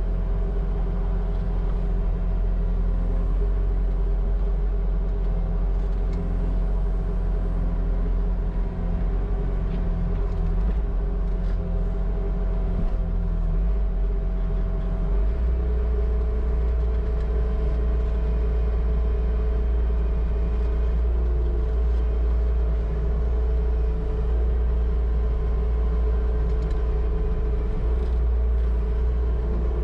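Bobcat T650 skid steer's diesel engine running steadily under the operator's control, heard from inside the cab; about halfway through its note steps up a little as the throttle or hydraulic load changes.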